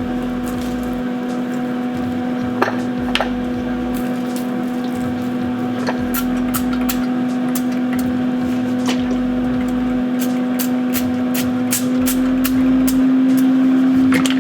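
A kitchen appliance running with a steady, even electric hum, with scattered light crackles and clicks.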